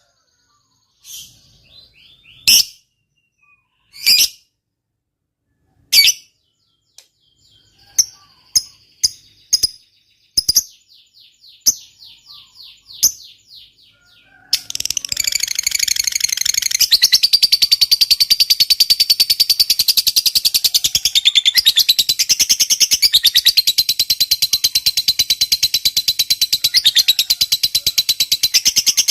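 Lovebird calling: sharp single chirps and short rapid chattering runs, then from about halfway a long unbroken rapid chatter. This is the 'ngekek panjang', the long chattering trill prized in fighter lovebirds.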